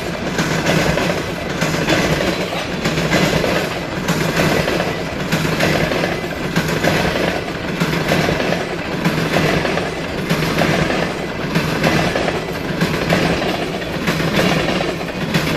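Canadian National freight train's tank cars rolling past close by, the wheels clacking rhythmically with a swell about once a second over a steady rumble.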